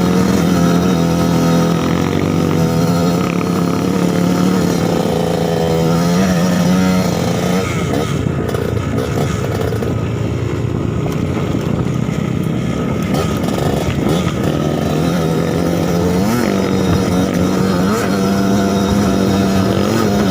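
Suzuki TS 125's single-cylinder two-stroke engine running at a steady note. About halfway through, the note breaks up and wavers for several seconds, then settles back to a steady pitch.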